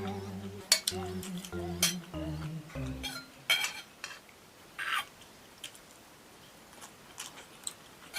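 Eating utensils clinking and scraping against a plate in scattered sharp clicks, over background music with a plodding bass line that stops about three seconds in.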